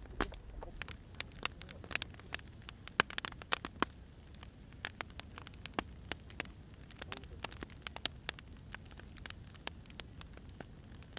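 Firewood burning, with irregular sharp pops and snaps over a low steady rumble of the fire.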